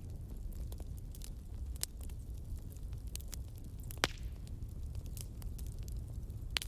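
Fireplace fire burning with a steady low rumble and scattered crackles, one sharper pop about four seconds in.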